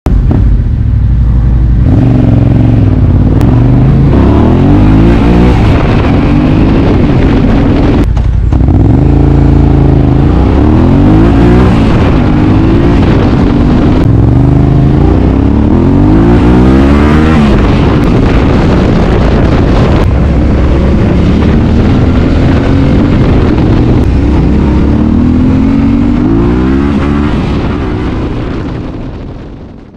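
Yamaha Ténéré 700's parallel-twin engine through an Akrapovič exhaust, revved hard for wheelies, its pitch sweeping up and falling back again and again. There is a brief break in the sound about eight seconds in, and it fades out near the end.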